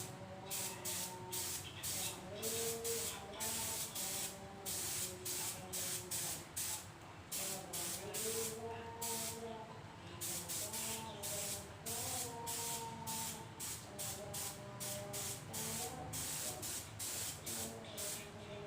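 Aerosol spray-paint can spraying candy-colour paint onto a motorcycle wheel rim in quick short bursts, two or three a second, with brief gaps between them.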